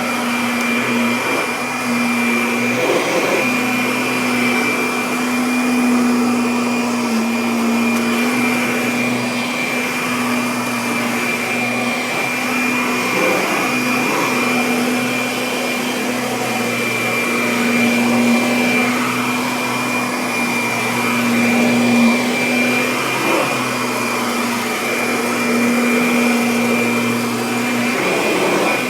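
Kirby Avalir upright vacuum cleaner running steadily while vacuuming: a constant motor hum with a thin high whine above it, the pitch shifting slightly a few times as the machine is worked.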